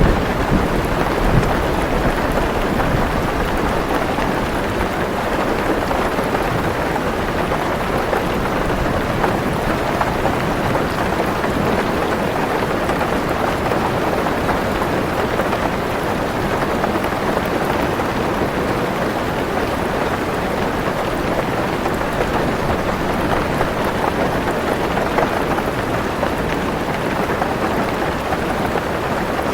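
Heavy rain pattering steadily on a car roof, heard from inside the car. A low rumble of thunder dies away in the first second or so.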